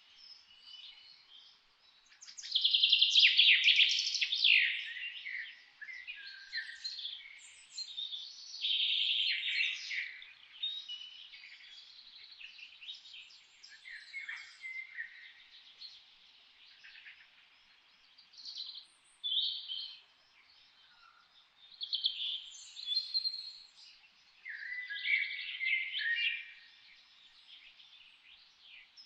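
Songbirds singing in a forest: bursts of high chirps and trills, the loudest phrase a few seconds in, then shorter phrases every few seconds with quieter gaps between.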